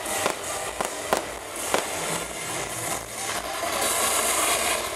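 Fireworks display: several sharp bangs of bursting shells in the first two seconds, then a loud rushing hiss in the second half.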